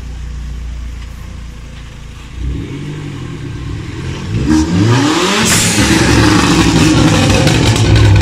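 Car engine idling, then revved: a short rise about two and a half seconds in, more revs a couple of seconds later, then loud sustained high revs through the second half.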